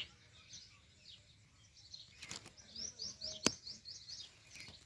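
House sparrows chirping in short scattered notes, with a quick run of rapid chirps about three seconds in. A single sharp click sounds in the middle of that run.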